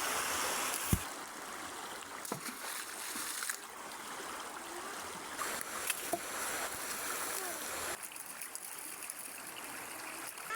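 Steady hiss of falling water, as from a home-made rain effect, with one heavy thud about a second in and a few lighter knocks later.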